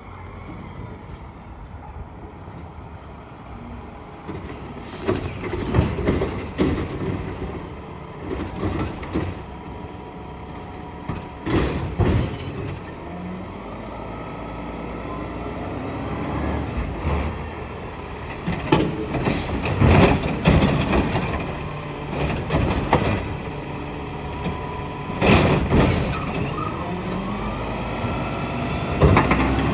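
Peterbilt McNeilus side-loader garbage truck working: its engine running steadily and growing louder later on, with repeated clanks, bangs and air hisses from the truck and its loading gear.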